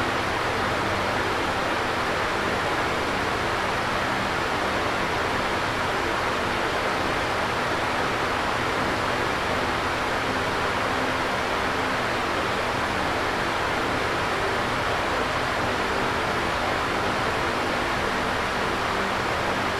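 Electric fan running steadily: an even rushing whoosh of moving air with a faint low motor hum underneath.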